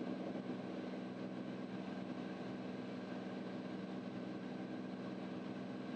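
Steady, quiet drone of the Cirrus SR22T's turbocharged six-cylinder engine heard inside the cockpit in cruise on the approach, an even hum with no change in pitch.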